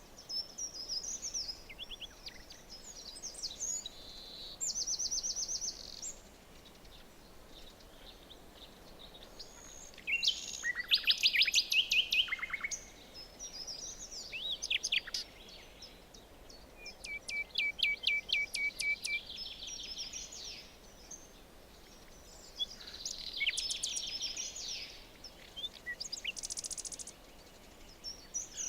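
Several songbirds singing in a forest: short phrases of rapid trills and quick repeated chirps, broken by brief pauses, over a faint steady background. The loudest trill comes about ten seconds in.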